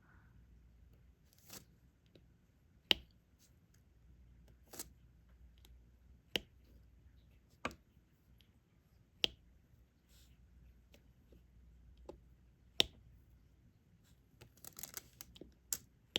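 Diamond-painting stylus setting single drills onto the sticky canvas one by one: a sharp click about every second and a half, with a quick flurry of small clicks near the end.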